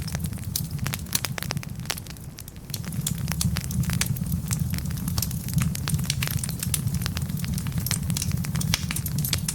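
Wood logs burning in a fireplace, crackling with many sharp pops over a steady low rumble of the flames. The rumble drops away briefly about two seconds in, then returns.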